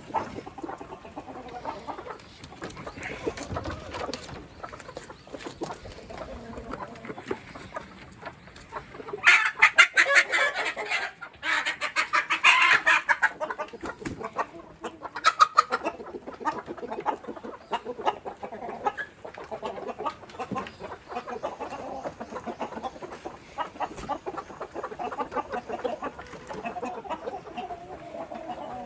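Free-range chickens clucking, with a louder, busier stretch of calls about a third of the way in.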